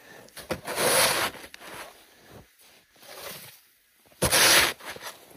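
A large snow shovel scraping and scooping loose, powdery snow: two loud crunching scrapes, about a second in and near the end, with fainter scrapes between.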